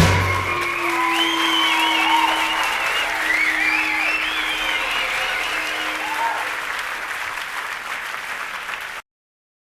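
Concert audience applauding and cheering, with high shouts or whistles, right after the music stops; the applause slowly fades and then cuts off abruptly near the end.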